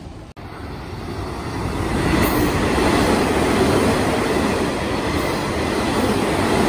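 Nishitetsu electric commuter train running past the platform: wheels on rails and the passing cars make a dense rumble that swells over the first two seconds, then holds loud and steady.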